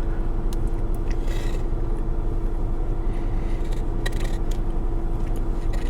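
A few short crackles and scrapes of someone biting into and chewing a sugar-coated mini cake, over a steady background hum with a constant low tone.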